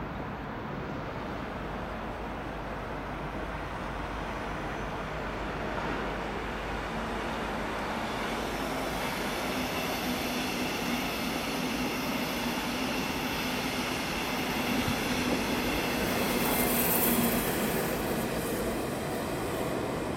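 Double-deck regional push-pull train with a class 146 electric locomotive passing close by. Its wheels rumble steadily and grow louder, and high whining tones join about halfway. The sound is loudest a few seconds before the end as the locomotive goes by.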